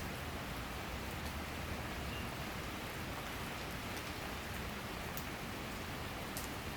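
Summer rain shower falling steadily, a dense even hiss with a few sharp drip ticks now and then.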